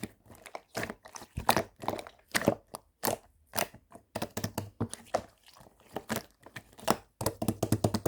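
Irregular crisp crackles and crunches, several a second, coming thicker and faster near the end.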